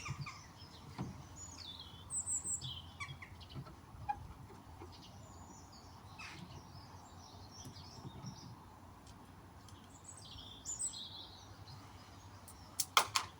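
Wild birds chirping and singing in short calls, over a faint steady background hum, with two sharp clicks near the end.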